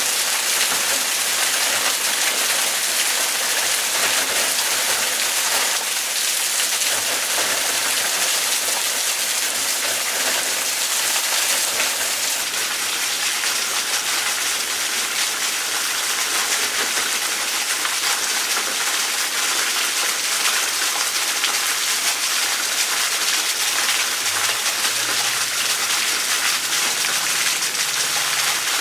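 Heavy rain pouring down steadily, a dense even hiss of rain hitting the ground and surfaces.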